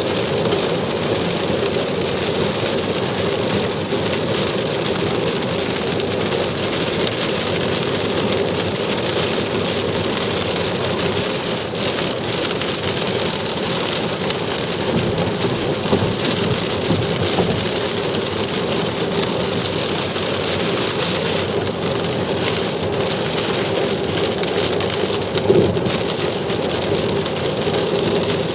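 Heavy rain falling steadily, a dense even hiss with a low steady hum under it. There are two brief knocks, one about sixteen seconds in and a louder one near the end.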